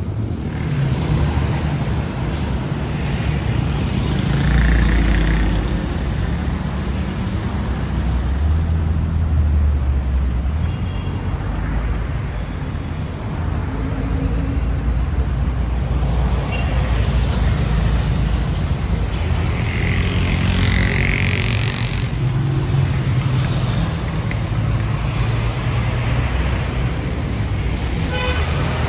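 Street traffic: the low, steady drone of vehicle engines idling and moving. A vehicle passes more loudly a little past the middle.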